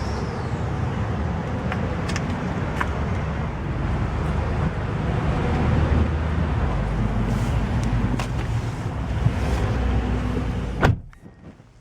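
Steady low noise with a few light clicks, then one heavy thud of a car door shutting about eleven seconds in, after which the sound drops abruptly to a much quieter, closed-in background.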